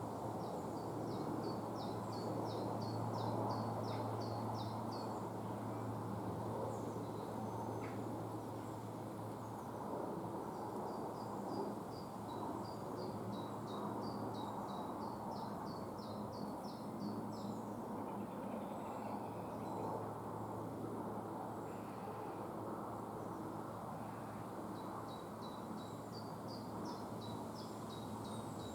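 A small songbird singing three long phrases of quick, high, falling notes, with pauses between them, over a steady low hum and outdoor background noise.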